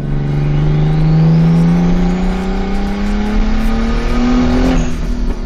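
Nissan RB20DET turbocharged straight-six in a 240SX, fitted with a big turbo and a straight-pipe exhaust, pulling under load: the engine note climbs steadily while a high turbo whistle rises with it. Near the end the note drops suddenly.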